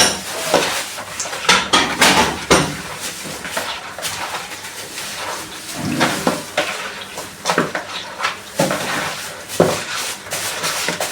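A cooking spoon stirring chicken stew in a pot, knocking and scraping against the pot in irregular clinks as the seasoning is mixed in.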